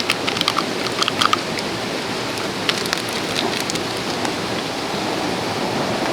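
Steady rushing of a shallow stream flowing over stones, with scattered sharp ticks, a cluster about a second in and a few more near the middle.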